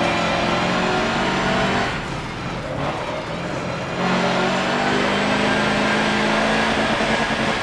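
Mercedes-Benz racing truck's 805 kW diesel engine pulling hard under load. It eases off for about two seconds, starting about two seconds in, then pulls hard and steady again.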